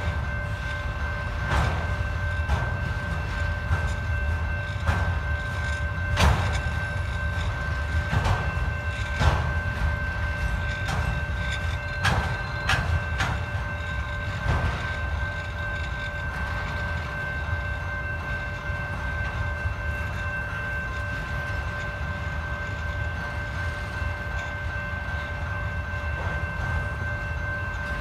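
Autorack freight cars rolling past at a grade crossing over a steady low rumble, with sharp clacks and clanks from the wheels and couplers, frequent in the first half and sparser later. A steady high ringing tone runs throughout.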